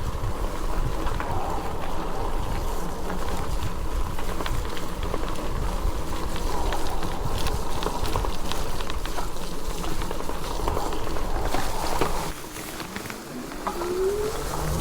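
Steady rumbling noise of an e-bike ride on a trail: wind buffeting the microphone and tyres rolling, dipping briefly about twelve seconds in, then a rising whine near the end.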